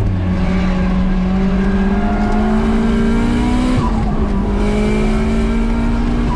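Drift car's engine heard from inside the cabin during a slide. The revs drop and jump back up at the start, then hold high and climb slowly, with a brief dip a little under four seconds in, over tyre noise.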